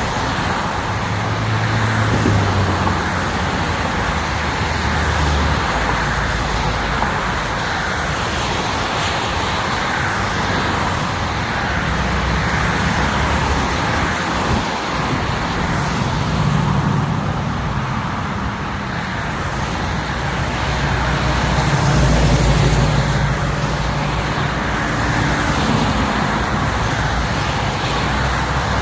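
Motor vehicle driving at highway speed: steady road and tyre rush with a low engine hum that shifts in pitch now and then and swells about two-thirds of the way through.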